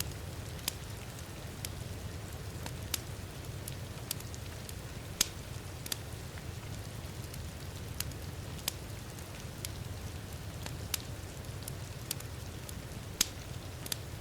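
Wood fire crackling in a fireplace: sharp, irregular pops and snaps, one or two a second, with a louder pop about five seconds in and another near the end, over a steady low rumble and a soft hiss of rain.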